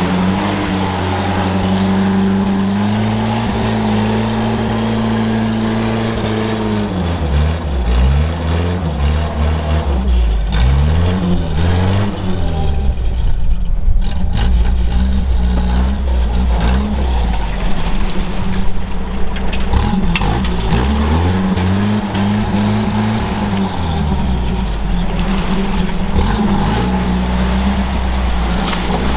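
Off-road vehicle engine under load, held at steady revs for several seconds, then revving up and down repeatedly before settling back to steady running near the end.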